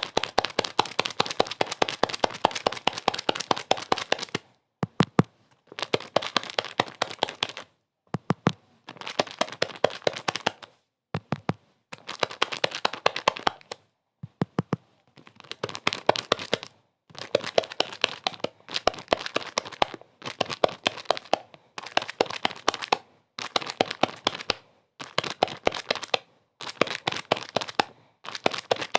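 Dense crackling and crinkling, like something being crumpled, coming in bursts of one to two seconds with short silences between them.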